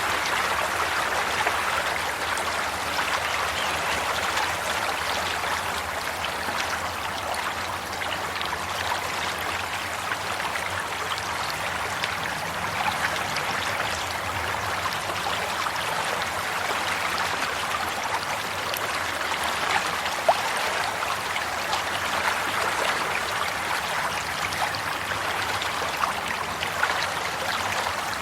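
Water in a stream, flowing and trickling steadily, with small splashes now and then and one slightly sharper splash about two-thirds of the way through.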